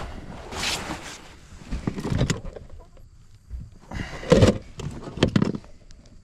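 Rummaging through a vehicle's storage compartments: an irregular run of clicks, knocks and rustles as items are moved, loudest around four to five seconds in.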